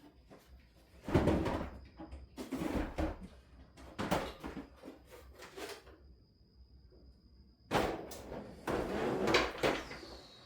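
Metal toolbox drawers sliding open and shut and tools clattering inside them as someone rummages for a puller, in about six short bursts with brief pauses between.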